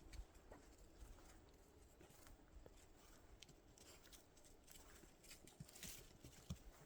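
Faint, irregular footsteps crunching in light snow, with scattered soft clicks and a brief brighter scuff about six seconds in.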